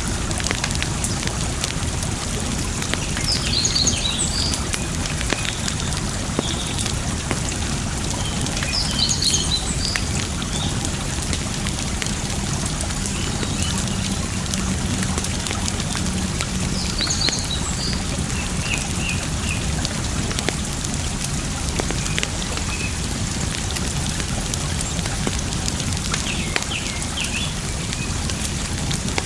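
Campfire crackling with frequent small pops over a steady rush of running water, while birds chirp in short bursts several times.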